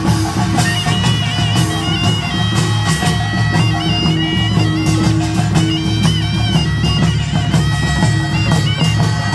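Korean nongak farmers' band music: a taepyeongso shawm plays a high, held and ornamented melody over dense percussion from kkwaenggwari small gongs, janggu hourglass drums and buk barrel drums.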